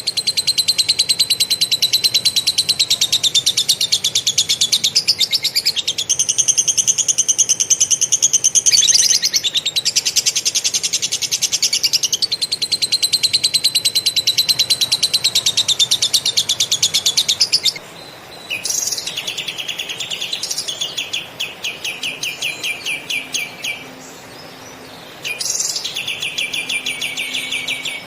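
Kapas tembak (katem) singing long, fast rolling trills in the lovebird style, the notes packed tightly together. One nearly unbroken trill runs for the first two-thirds or so, then it breaks into shorter, lower trilled phrases with brief pauses between them.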